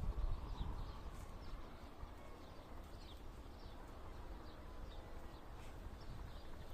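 Small birds chirping, many short high falling chirps scattered throughout, over a low rumble.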